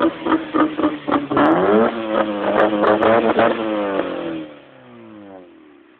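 Honda Civic's exhaust as the engine is revved in a quick series of throttle blips, then held at higher revs for about two seconds before the revs fall away toward idle near the end.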